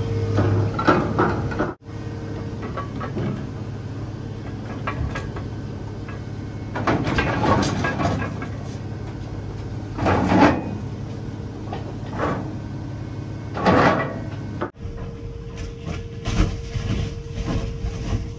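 Loud clanks and rattles of metal from a car-hauling trailer and its load, four or five of them in the second half, over the low steady running of a truck engine.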